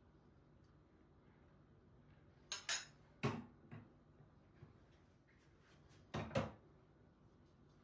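Kitchenware being handled: a few sharp clinks and knocks in two clusters, one about two and a half seconds in and another about six seconds in, against a faint quiet background.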